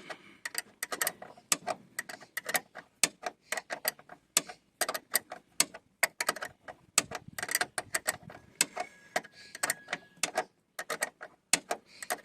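Rapid, irregular metallic clicking of a wrench working the bolts of a car door check strap as they are tightened by hand.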